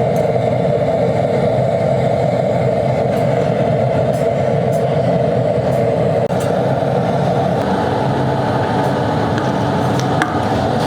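Steady running machinery: a loud continuous drone over a low hum, with a brief drop about six seconds in.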